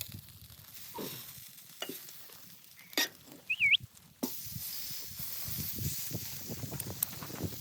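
Scattered knocks and clicks, and a brief wavering squeak about three and a half seconds in. From about four seconds in, a steady sizzling hiss sets in, with fine ticking in it.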